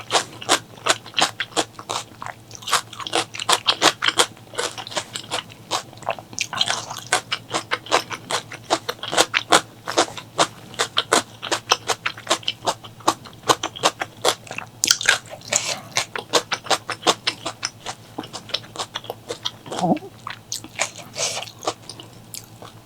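Close-miked chewing and crunching of food in the mouth: a dense run of crisp, wet clicks, several a second, with a few brief squelchy patches.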